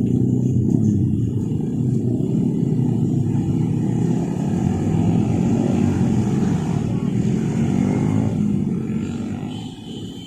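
A parcel train passing over the level crossing: a loud, steady rumble of wheels and carriages on the rails that fades away near the end as the train goes by.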